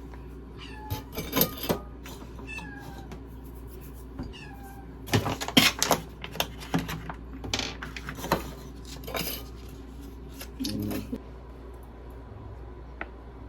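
A kitten eating, giving small high falling mews between mouthfuls, with scattered clicks of chewing and of the food dish.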